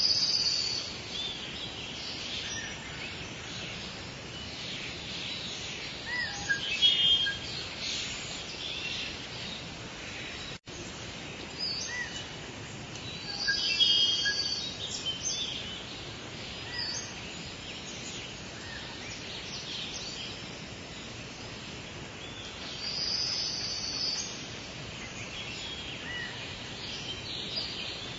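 Steady soft rain hiss with birds chirping and trilling every few seconds over it, the louder bird phrases coming near the start, about seven, fourteen and twenty-three seconds in. The sound cuts out for an instant about ten and a half seconds in.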